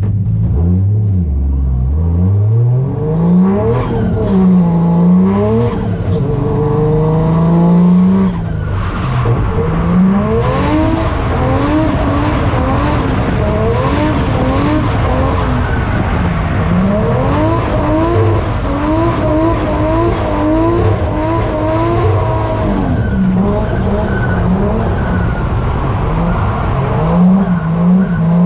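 Toyota 1JZ straight-six in a Nissan 240SX revving up and down over and over through a drift run on a wet track, heard from inside the caged cabin, with tyres skidding.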